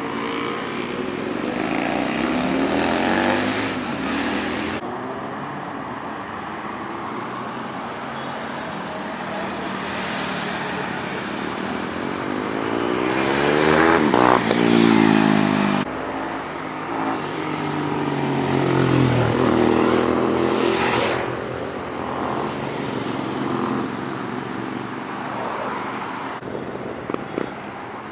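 Superbikes riding past one after another: each engine note rises in pitch as it approaches and drops as it passes, the loudest pass about fourteen seconds in and another a few seconds later, over steady traffic noise.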